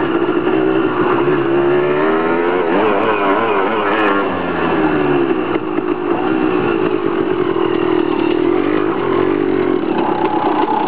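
Dirt bike engine running under changing throttle on a loose gravel track, its pitch rising and falling. Near the end the engine note settles and holds steady.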